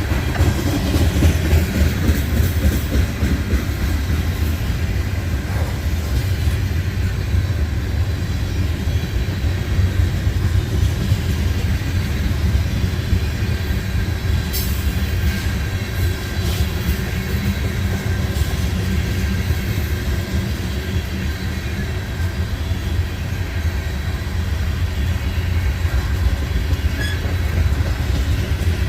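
Canadian Pacific freight train rolling past with a steady low rumble of wheels on rail. Scattered sharp clicks from the wheels come about halfway through.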